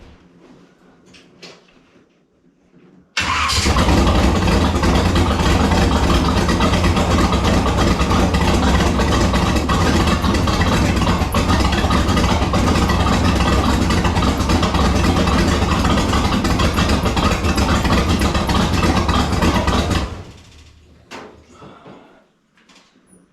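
Engine of a 1929 rat rod on Stromberg carburettors starting about three seconds in, running steadily for about 17 seconds, then shut off near the end. It is a short run after an oil and filter change to fill the new filter and bring up oil pressure.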